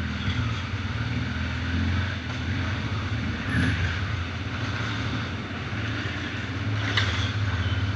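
Honda Transalp's V-twin motorcycle engine running at low, steady revs, with a short knock about seven seconds in.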